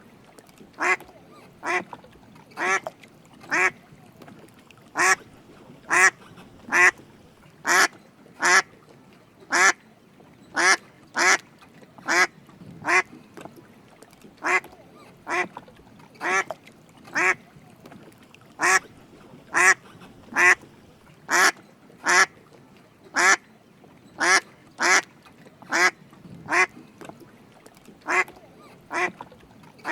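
Drake mallard quacking: short, sharp quacks repeated about once or twice a second, often in quick pairs.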